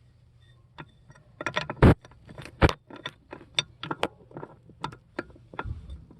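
Irregular run of sharp metallic clicks and clinks, with two louder knocks about two seconds and nearly three seconds in: a metal tool being handled and set against the gas shutoff valve at the meter.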